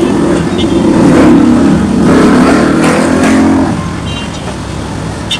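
A motor vehicle passing close by over steady background traffic noise, loudest for the first three and a half seconds and fading away by about four seconds in.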